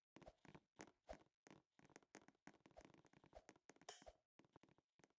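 Near silence, broken by faint, scattered short clicks and ticks.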